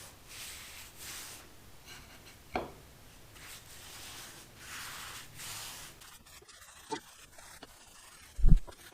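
A series of scraping, rubbing strokes on wood, each lasting under a second. A sharp knock comes a few seconds in, a few light clicks follow later, and a loud, heavy thump comes near the end.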